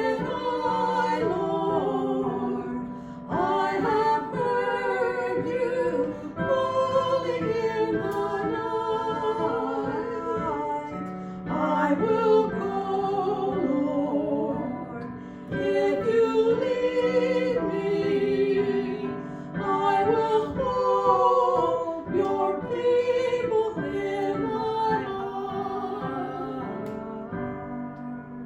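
A worship song: a sung melody with vibrato over sustained instrumental accompaniment, dying away near the end.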